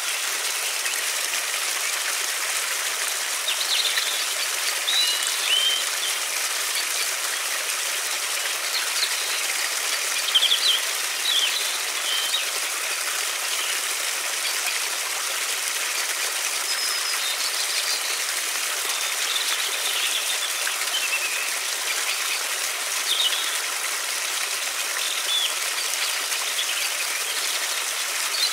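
River water running in a steady rush, with songbirds giving short chirping calls every few seconds.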